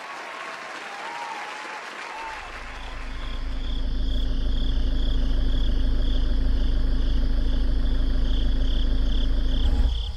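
Applause for the first couple of seconds, then crickets chirping in an even pulse about twice a second over a steady low rumble.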